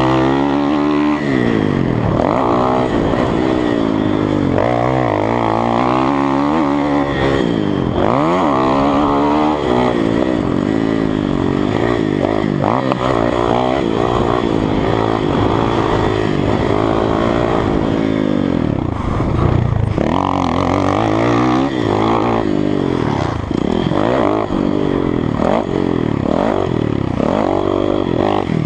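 Kawasaki KX450F dirt bike's single-cylinder four-stroke engine being ridden hard, its pitch climbing and dropping again and again as the throttle opens and closes.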